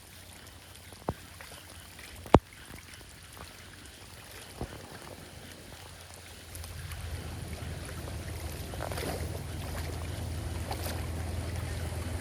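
Floodwater rushing and draining, with wind on the microphone; two sharp knocks come in the first few seconds, and the low rushing grows louder about halfway through.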